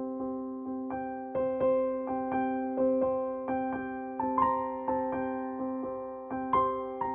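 Solo piano playing a slow instrumental piece, notes struck about twice a second over held lower notes.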